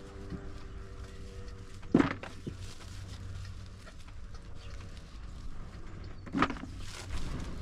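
Two sharp knocks about four seconds apart, the first the louder, over a low steady background rumble.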